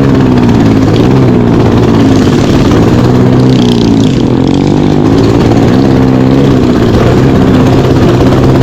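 Mini bike's small engine running loud under throttle, its pitch rising and falling again and again as the throttle is opened and eased off.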